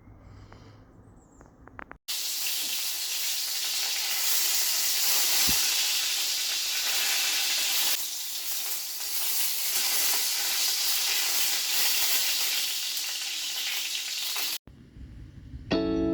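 Food frying in a hot pan: a steady sizzle that cuts in sharply about two seconds in, after a quiet moment with a few small clicks, and stops abruptly near the end.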